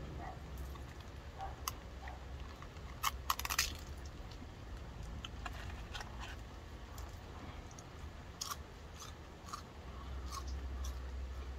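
Close eating sounds: a person chewing and crunching fast food, with scattered small clicks and a short cluster of crackles about three seconds in as the food and a sauce cup are handled.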